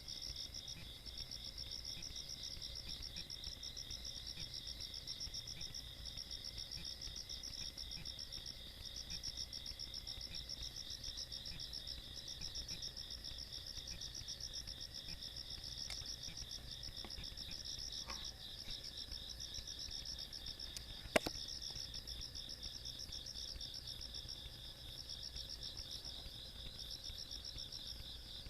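Insects chirping in a steady chorus of fast pulsed trills at two pitches, with a faint steady whine beneath. One sharp click about three quarters of the way through.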